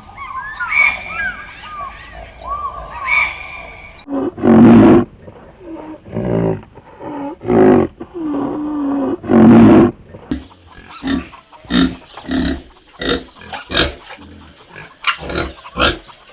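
Birds chirping faintly, then about four seconds in a large animal starts roaring: four long, loud roars followed by a run of short grunts in quick succession.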